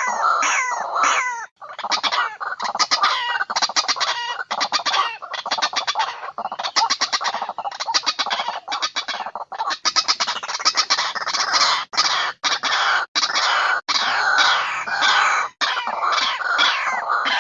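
White-breasted waterhen (ruak-ruak) lure-call recording: a continuous chorus of rapid, harsh repeated notes, some falling in pitch, broken by a few short gaps.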